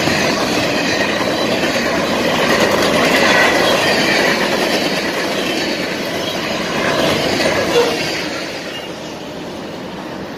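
Covered hopper cars of a freight train rolling past close by, steel wheels clattering over the rail joints in a steady clickety-clack. The sound falls away about eight seconds in as the last car passes and moves off.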